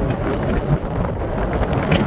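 Fireworks display: a continuous low rumble of booms with a few sharp crackles near the end.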